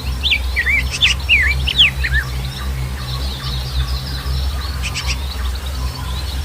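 Several birds chirping: quick rising and falling notes for the first two seconds, then faster, higher twittering, over a steady low rumble.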